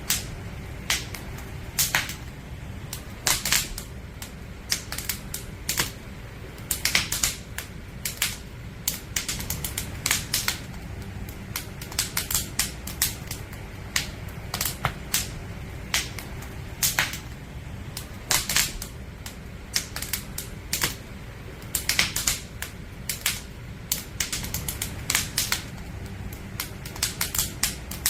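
Firewood burning in an open campfire, crackling and popping with irregular sharp snaps, some in quick clusters, over a steady low rumble of the flames.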